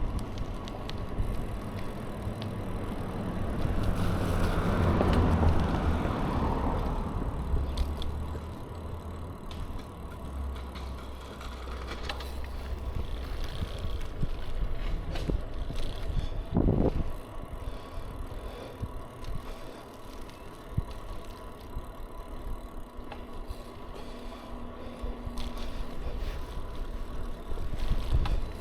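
A bicycle being ridden: a steady low rumble of riding noise with small rattles and clicks from the bike. The sound swells louder about four to seven seconds in, and there is a single thump about halfway through.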